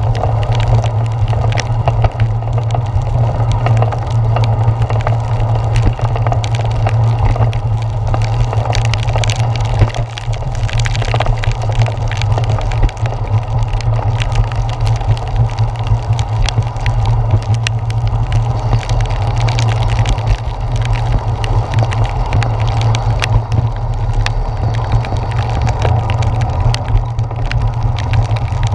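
Heavy rain heard through a handlebar-mounted GoPro's housing as a bicycle rolls over wet pavement: a steady low rumble of wind and tyres, with many sharp, irregular taps of raindrops hitting the camera.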